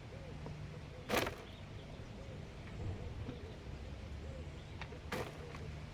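Two short, sharp knocks about four seconds apart, from hands working a garden container and its soil, over a faint steady background.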